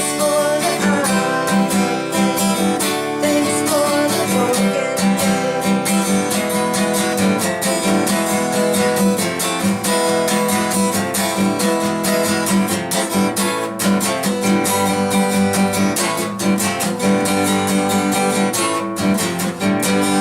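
Acoustic guitar strummed in a steady, even rhythm, playing a continuous chord progression.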